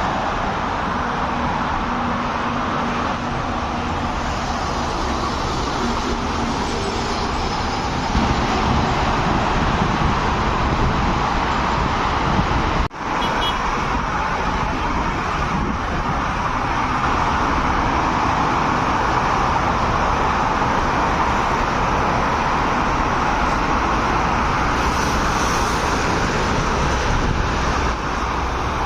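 Steady road traffic noise of passing vehicles and tyres on the road. It drops out for an instant about 13 seconds in.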